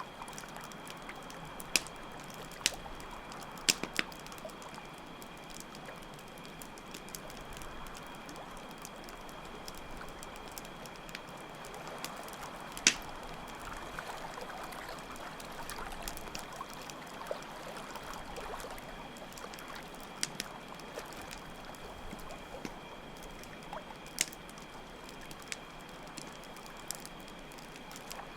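Campfire crackling with scattered sharp pops, the loudest about halfway through, over a steady trickling stream and a constant high chirping of crickets.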